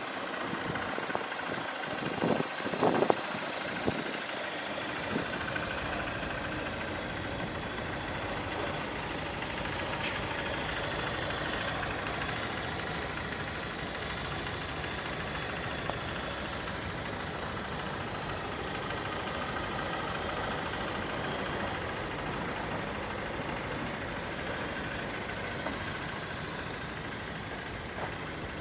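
A few clicks and knocks, then from about five seconds in a steady engine running evenly.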